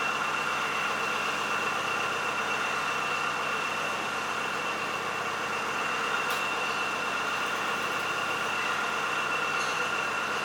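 Steady mechanical hum with a high, even whine, unchanging throughout; a single faint click about six seconds in.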